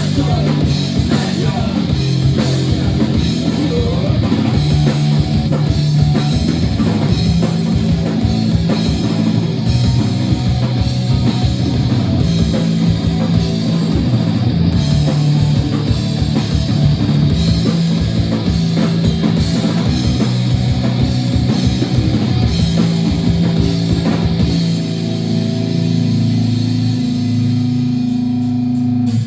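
Rock band playing with a drum kit, guitars and bass. About 25 seconds in the drums drop out, leaving a held, ringing chord.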